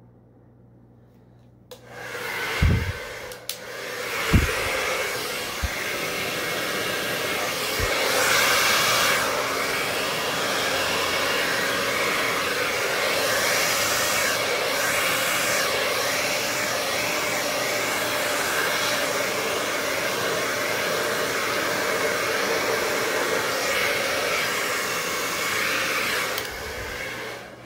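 Hair dryer switched on about two seconds in, blowing steadily to push wet acrylic paint across a canvas in a Dutch pour, with a few low bumps in its first seconds; it is switched off near the end.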